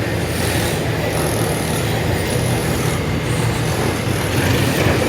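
Heavy diesel dump truck engine running steadily with a low, even drone.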